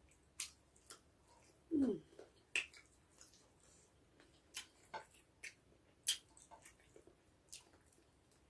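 Close-up eating sounds from spicy chicken feet being chewed and sucked: irregular wet smacks and sharp clicks from lips, teeth and small bones, with a short falling hum from the eater about two seconds in.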